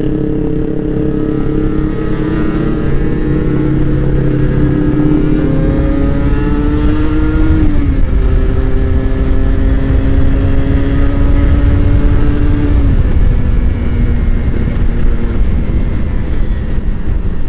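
Motorcycle engine accelerating through the gears, its pitch climbing steadily and dropping sharply at two upshifts, about 8 and 13 seconds in, over heavy wind and road rumble.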